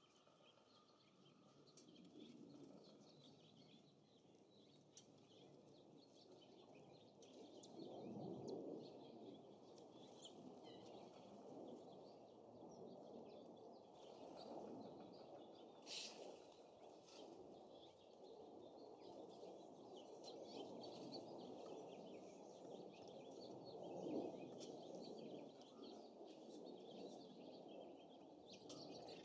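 Wind gusting over the microphone, swelling and easing several times, with faint, frequent chirps and calls from small songbirds at a feeder.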